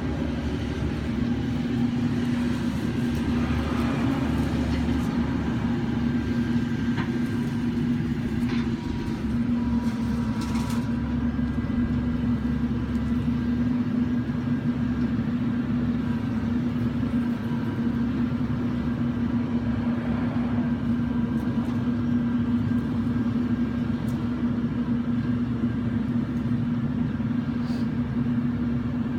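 Claw truck's engine running steadily, with a constant hum and a few faint clicks and knocks.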